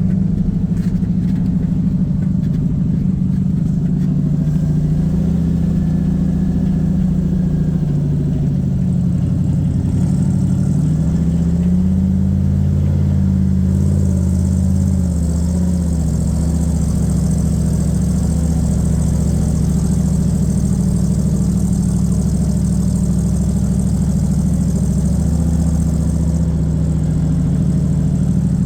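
1978 Chevy C30 square-body dump truck's 350 small-block V8 running steadily while hauling a heavy load of about 4 to 5 tons of clay. Its engine speed dips and rises a few times in the first half, then holds steady.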